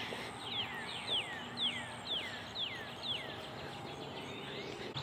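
A songbird singing a run of clear falling whistles, about two a second, stopping about three seconds in.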